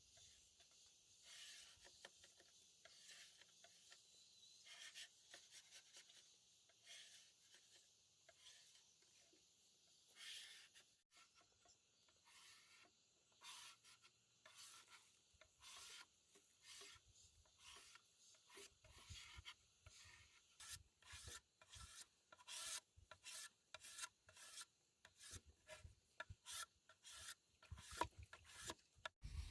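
Faint rubbing and scraping with many short clicks, coming quicker and louder in the second half.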